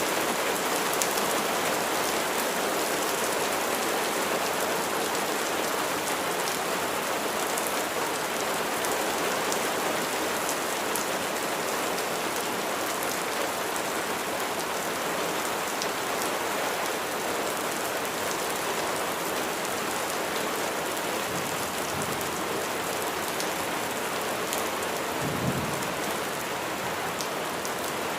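Steady rain pouring down, an even hiss with many fine drop ticks. A brief low thud comes near the end.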